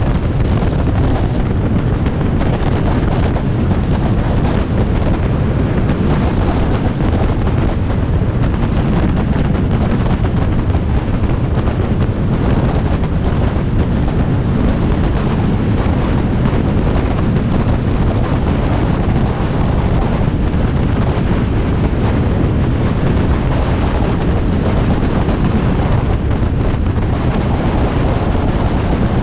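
Wind buffeting the microphone over a Harley-Davidson Iron 1200's air-cooled V-twin running at riding speed: a loud, steady rush with no change.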